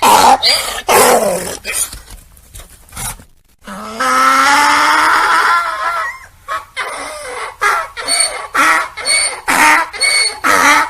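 Donkey braying: a long held call about four seconds in, then a rapid run of short hee-haw calls, about two a second.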